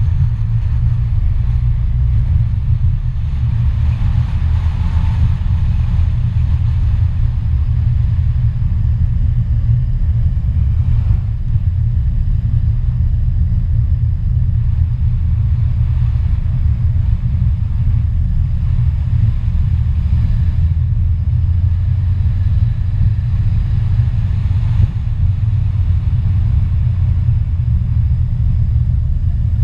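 A car driving along a road: a steady, heavy low rumble of the moving vehicle that holds level throughout.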